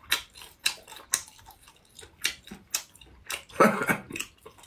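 Close-up chewing of cooked baby octopus: wet, smacking mouth clicks in quick, irregular succession, with a louder mouth sound about three and a half seconds in.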